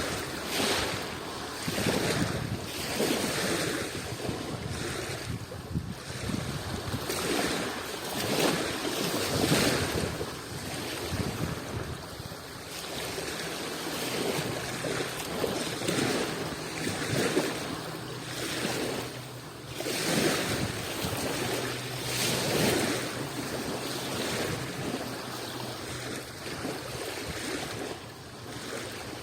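Adriatic Sea waves washing in, one surge after another every couple of seconds.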